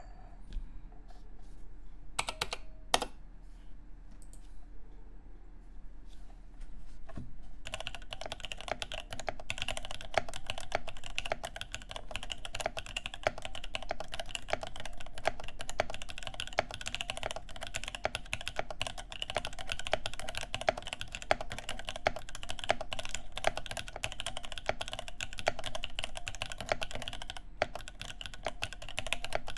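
Cake60 mechanical keyboard with lubed NK Cream linear switches in an aluminium plate and GMK keycaps: a couple of sharp clicks between two and three seconds in, then continuous fast typing from about eight seconds in.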